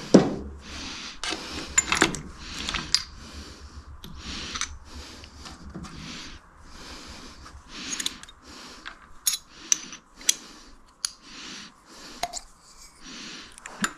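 Ratchet wrench worked back and forth on a motorcycle engine's gearbox, a short rasping stroke about twice a second, with a few sharp metal clicks.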